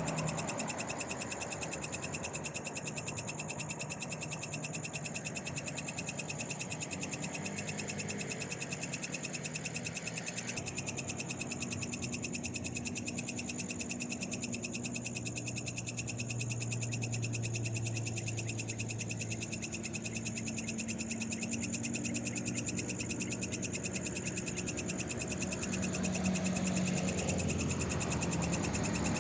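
Night chorus of frogs and insects: a steady, fast pulsing trill of high calls. A low hum swells and fades in the middle.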